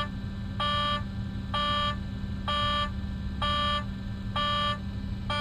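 An electronic warning beeper sounding about once a second in short, even beeps over the steady hum of a truck engine.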